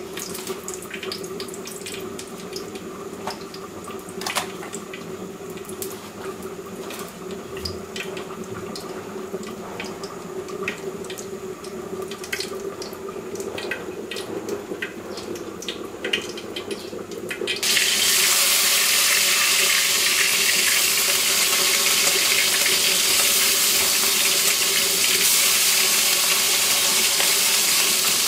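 Chicken wings frying in hot oil: about 18 seconds in, a loud, steady sizzle starts suddenly and keeps going. Before it, quieter clicks and taps of handling over a low steady hum.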